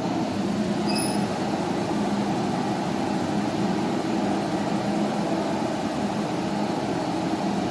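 A forge running with a steady, even roar and a low hum underneath, unchanging in level.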